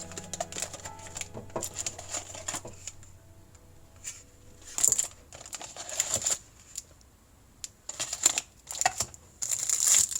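Handling noises: a string of irregular clicks, taps and short rustles, the loudest bursts about five, six, eight and ten seconds in. Background music fades out in the first couple of seconds.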